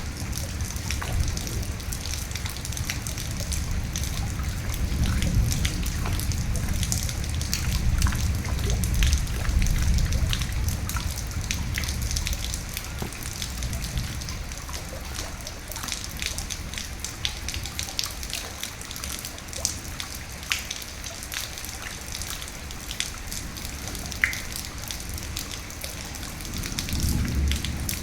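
Steady rain with many separate drops pattering on a surface, and a low rumble that swells and fades in the first half and rises again near the end.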